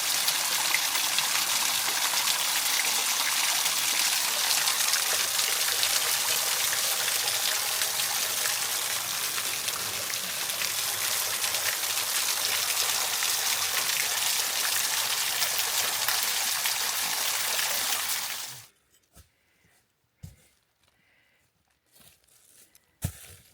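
Waterfall rushing: a steady hiss of falling water that cuts off suddenly near the end, followed by a few faint clicks.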